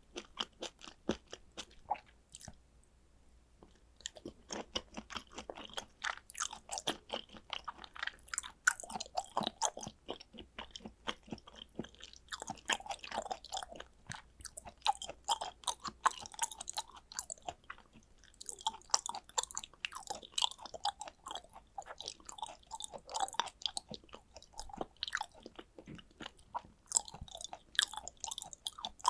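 Close-miked chewing of raw tuna sashimi: a fast, irregular run of small wet mouth clicks and smacks, with a brief lull about three seconds in.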